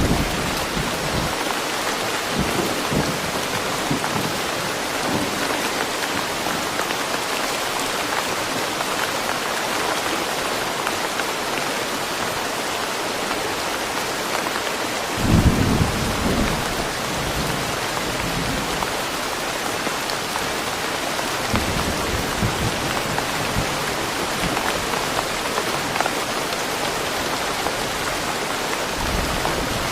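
Steady, dense rain falling in a forest, with a low roll of thunder about halfway through and fainter low rumbles now and then.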